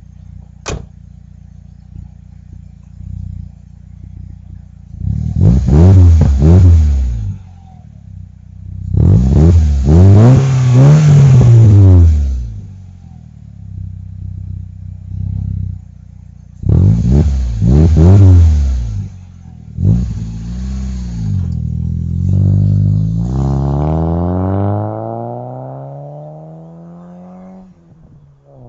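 1999 Nissan Sentra SE-L's 2.0-litre four-cylinder engine through a new aftermarket exhaust: idling, then revved four times in short bursts, the second one held longest. Near the end it pulls away with the pitch climbing steadily as it fades.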